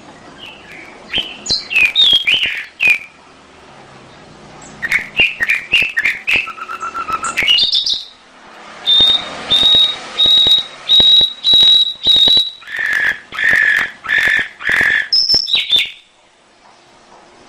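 Domestic canary singing in phrases of quick chirps and trills, then a run of about six evenly spaced high notes followed by five lower notes. The song stops about a second and a half before the end.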